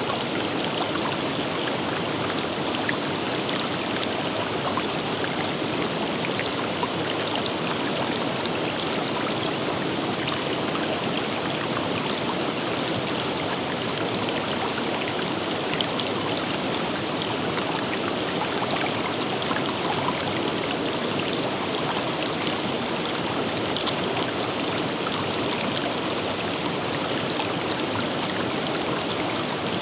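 River water flowing steadily over rocks, a constant rushing with faint splashes and trickles.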